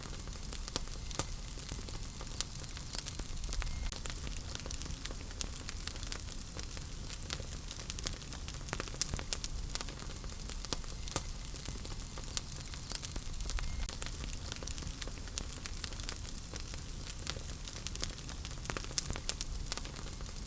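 Wood fire crackling in a fireplace: irregular sharp snaps and pops over a steady low rumble and hiss.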